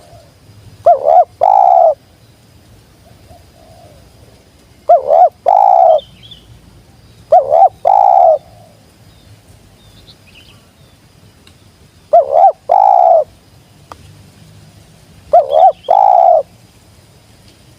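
Spotted dove cooing: five phrases, each two short quick coos followed by a longer drawn-out coo, spaced a few seconds apart.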